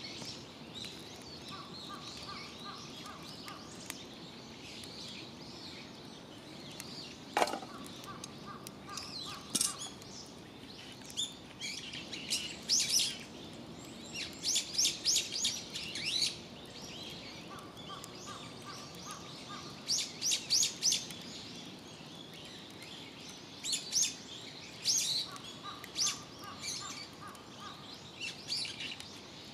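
Wild birds singing outdoors: several bursts of rapid, high chirping phrases, with a quieter run of evenly spaced mid-pitched notes recurring every few seconds over a steady background hiss. One short sharp sound sweeping down in pitch stands out about seven seconds in.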